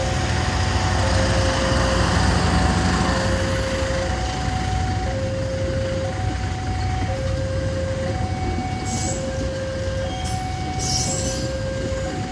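A train rumbling low and steadily while a two-tone electronic warning signal alternates high and low in a repeating cycle. Two short hisses come near the end.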